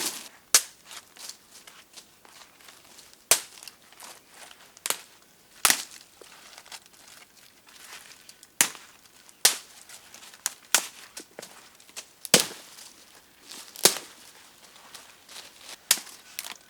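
Sharp, irregular snaps and cracks, roughly one a second and uneven in loudness, with faint crinkling and rustling between them.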